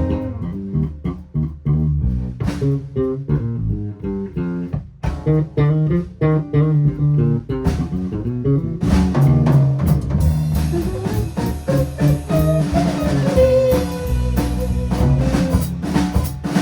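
A band playing an instrumental passage with guitar, bass guitar and drum kit, without singing. Past the middle, a guitar note glides up and is held for a second or two.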